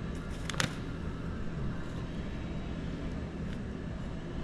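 Steady low drone of a running shop heater, with a short sharp click about half a second in.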